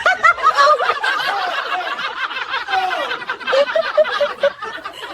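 Several people laughing at once, overlapping chuckles and giggles.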